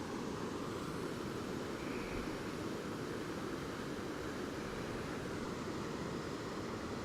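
Steady rush of river water pouring over falls, an even continuous roar without change.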